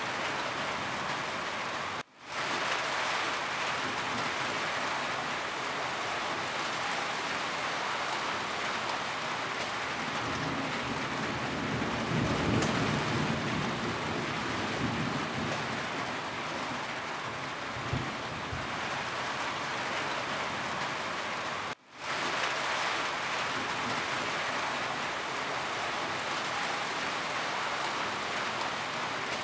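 Steady rain falling on a roof, a dense even hiss. A low rumble swells around the middle. Twice the sound cuts out for a split second and fades straight back in.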